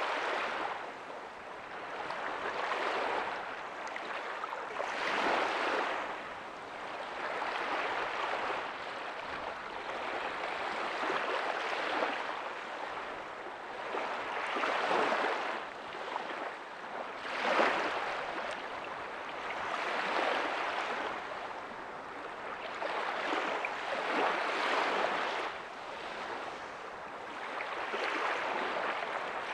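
Ocean waves breaking softly on a beach: a steady hiss of surf that swells and falls back every few seconds as each wave comes in and washes out.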